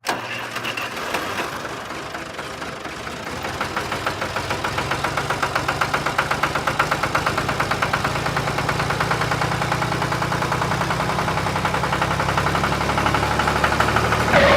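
Tractor engine running with a fast, even chugging. It grows louder and steadier from about four seconds in.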